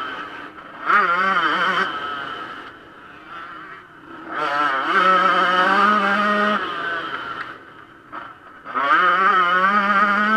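Yamaha YZ125 two-stroke motocross engine revving hard in three bursts of throttle, its pitch wavering up and down, with quieter off-throttle dips between.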